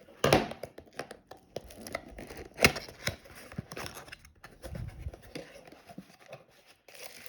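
Cardboard toy box being opened and its packaging handled: irregular clicks, scrapes and rustles, with two sharper knocks, one just after the start and one near three seconds in.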